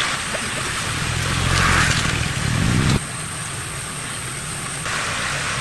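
Small motorcycle engine running and revving, getting louder until it cuts off suddenly about three seconds in; a quieter steady hiss follows.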